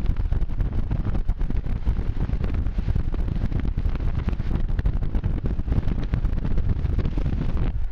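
Loud, steady low rumble with a fast flutter, like wind buffeting the microphone or a vehicle in motion.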